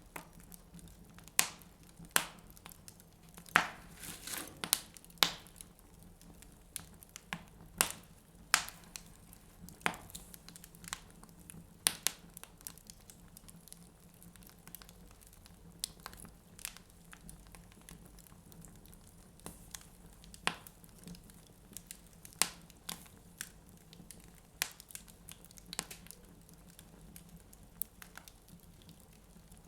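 Wood fire burning in a fireplace, crackling with irregular sharp pops, a few loud ones among many faint ones.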